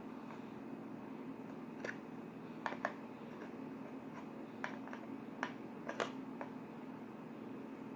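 Slime being handled, giving a few small clicks and pops scattered through the middle, over a steady low hum.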